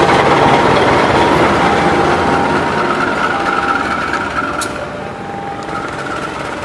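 Diesel-electric locomotive and passenger train passing close by: engine and wheel noise on the rails, slowly fading as it moves on, with faint steady high tones over it.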